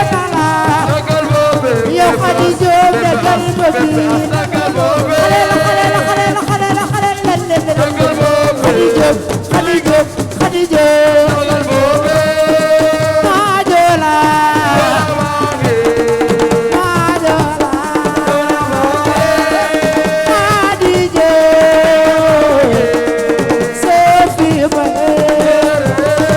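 Live Senegalese assiko music: a sustained melody stepping from note to note over dense hand drums and a rattling shaker.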